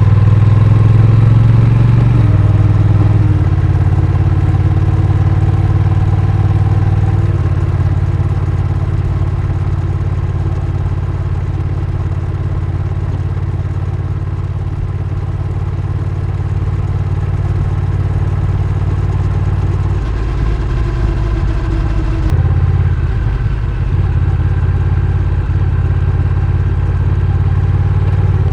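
Honda Rebel 1100's parallel-twin engine running under way, a steady low drone that steps in pitch several times.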